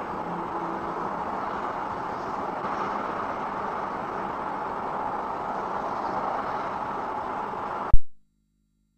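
Steady road and engine noise from a moving vehicle, heard from inside the cab. About eight seconds in there is a single sharp, very loud thump, and the sound then cuts off abruptly.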